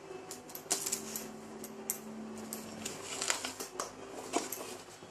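Scattered clicks, snips and rustles of hands working paper, tape and a balloon with scissors, cutting through the craft parts.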